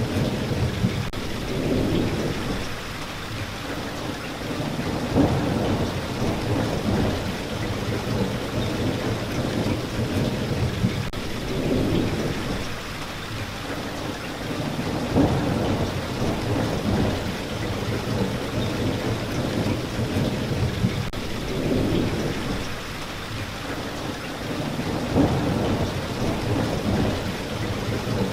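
Steady rain falling, with low rolling thunder rumbles that swell and fade every few seconds.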